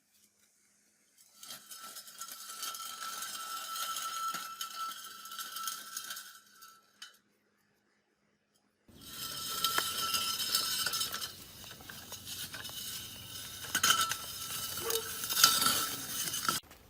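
Metal scraping and clinking in two spells of several seconds each, with a steady high tone running through both and a sharp silent break between them.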